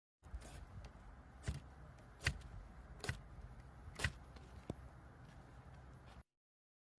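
Wood fire crackling faintly, with about six sharp pops and snaps over a low hiss; it cuts off abruptly near the end.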